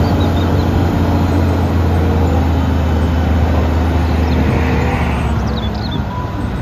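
Caterpillar M313D wheeled excavator's diesel engine running steadily with a low hum while the boom and bucket are worked by its hydraulics.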